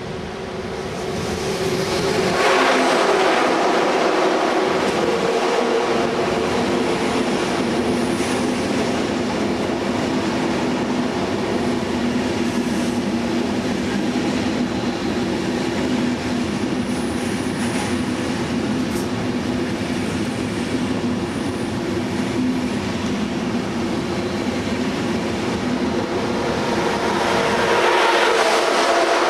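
ICE high-speed electric train drawing near and its coaches passing close by: a steady rumble of wheels on rail with a steady hum. It grows loud over the first two or three seconds and swells again near the end.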